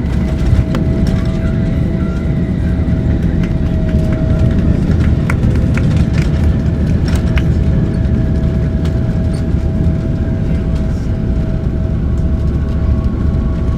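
Cabin noise inside a Boeing 777-300ER: a steady low rumble from the airframe and General Electric GE90 engines, with a thin steady whine and scattered light rattles.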